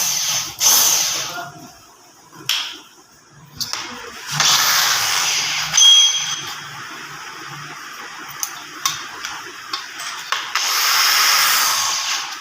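A hand-held power tool run in several short bursts, with clicks and ticks in between. This is in keeping with polishing the valve seats of a diesel cylinder head.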